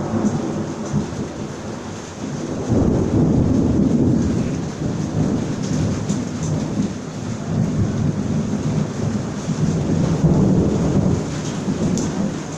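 Thunder rumbling over steady rain, the low rolling swelling about three seconds in and again near ten seconds, with scattered raindrop ticks.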